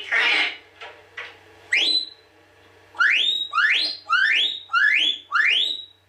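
Pet talking bird whistling: one upward-sweeping whistle about two seconds in, then a quick run of five rising whistles about half a second apart near the end, after a short noisy burst at the start.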